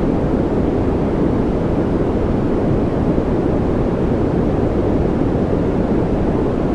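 Continuous steady noise from a focus and relaxation noise track. It is deep, with most of its energy low and only a little hiss, and it does not change.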